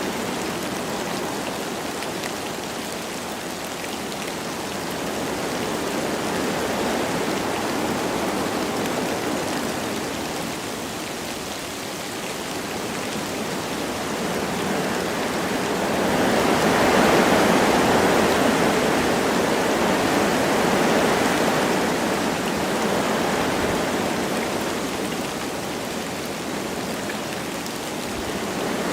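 Wind blowing through forest trees with light rain falling: a steady rushing hiss that swells in a gust a little past the middle and then eases.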